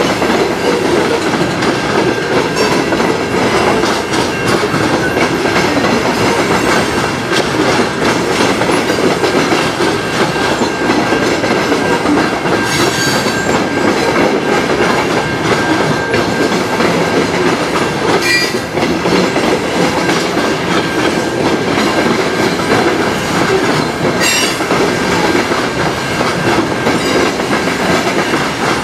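A freight train of covered grain hopper cars rolling past, its wheels making a steady rumble and clatter over the rails. Three brief high squeals cut in along the way.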